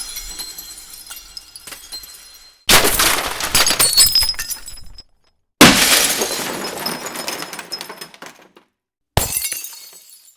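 Glass shattering in separate smashes: the tail of one fades out in the first two seconds, then three more follow at intervals of about three seconds. Each is a sudden crash followed by tinkling shards that die away.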